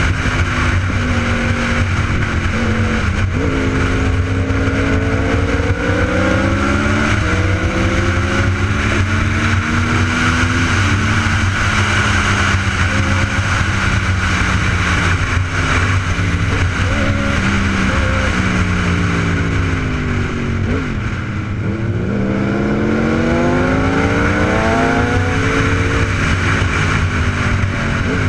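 Superbike engine accelerating through the gears: its pitch climbs, drops back at each shift and climbs again, with a dip and a fresh climb about three quarters of the way through, over a steady rushing noise.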